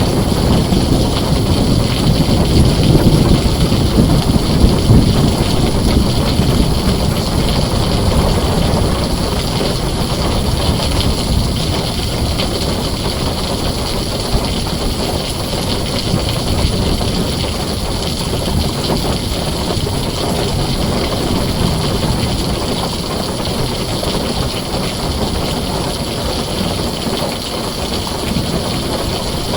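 Heavy rain drumming steadily on a tin roof, with a low thunder rumble in the first few seconds that fades away.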